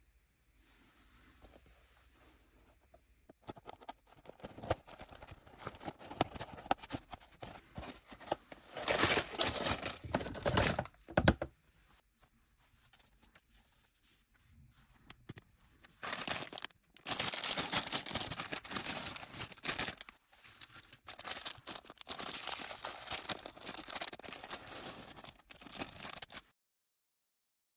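Lego set packaging being opened by hand: cardboard and plastic parts bags tearing and crinkling in irregular bursts, with a pause of a few seconds in the middle, then it cuts off abruptly.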